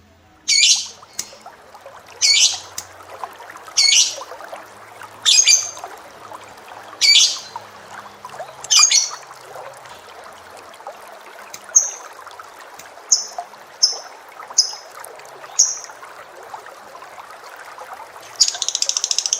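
Caged birds calling: a loud harsh call repeated six times about every second and a half, then a run of shorter high chirps. Near the end a fast continuous trill starts, typical of a canary's rolling song.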